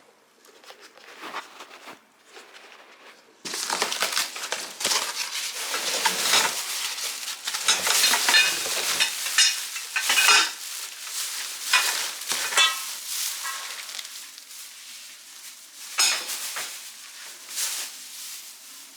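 Clothes-rack parts being taken out of their box: packaging rustling and crinkling, with parts clinking and clattering against each other. It starts about three and a half seconds in, eases off, and picks up again briefly near the end.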